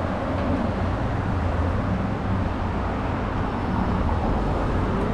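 Steady low rumble of vehicle and road noise, with no sudden events.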